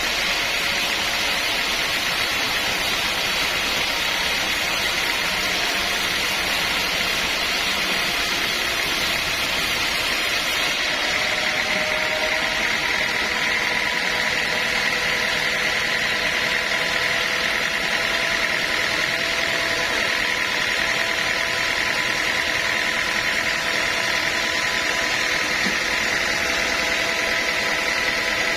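Sawmill machinery running steadily, a continuous mechanical noise with no letup. A few faint steady tones join it about eleven seconds in.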